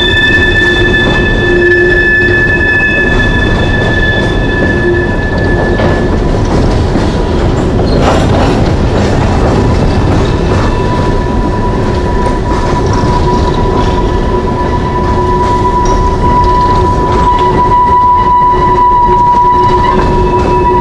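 Coal hopper cars rolling past close by: a loud, steady rumble of steel wheels on rail. Over it runs sustained, high-pitched wheel squeal from the curving track. One squeal fades out about six seconds in, and a lower one takes over from about ten seconds.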